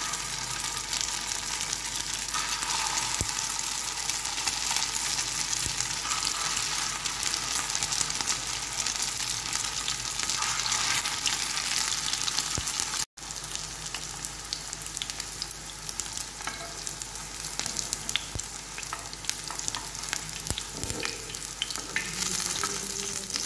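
Minced-chicken kabab patties shallow-frying in a little hot oil on a flat griddle pan, a steady sizzle with small ticks and pops. The sizzle cuts out for an instant about halfway through, then carries on a little quieter.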